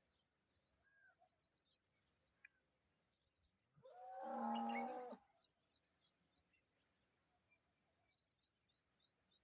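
Birds chirping faintly in quick, high runs, with one louder, harsh call a little over a second long about four seconds in.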